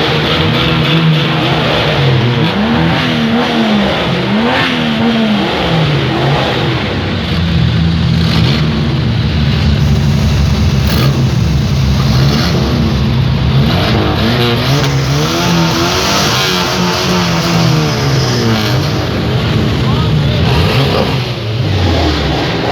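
Old six-cylinder car engine being revved repeatedly, its pitch rising and falling in several waves with steadier running between, settling down near the end.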